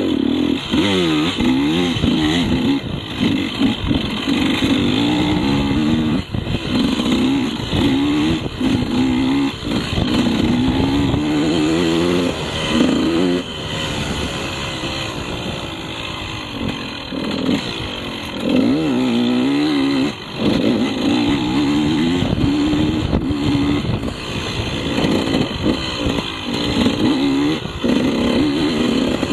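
KTM 150 two-stroke enduro motorcycle engine revving up and down repeatedly under riding throttle, easing off for a few seconds around the middle.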